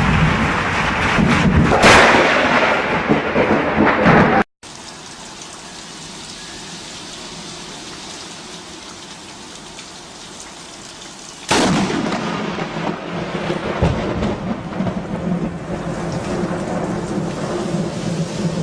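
Thunderstorm with rain falling: a close thunderclap cracks about two seconds in. After an abrupt cut there is steadier, quieter rain, then a sudden loud thunderclap about two-thirds of the way through, with thunder and rain continuing after it.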